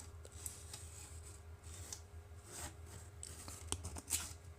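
Faint, scattered scrapes and rubs of a small marking tool being handled and set against a model rocket's body tube, over a steady low hum.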